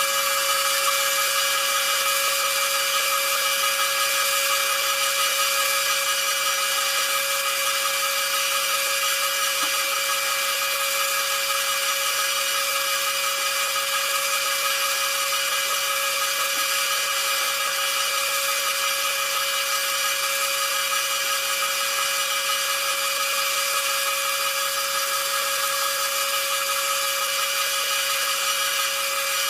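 Lathe running at a steady speed: a constant machine whine of several steady tones over a loud hiss, starting suddenly and holding unchanged.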